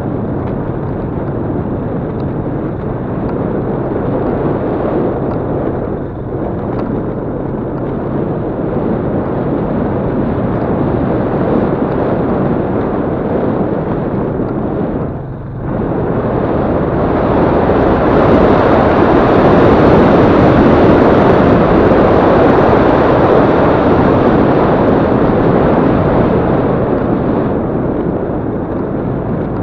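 Yamaha Crypton-X motorcycle being ridden, its engine running under steady throttle with wind noise on the microphone. The sound dips briefly about six seconds in and again about fifteen seconds in, then grows louder for about ten seconds before easing back.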